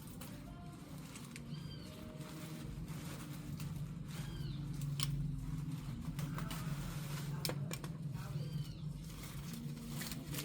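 A bird giving short arched chirps, three times, over a steady low hum, with a few sharp clicks.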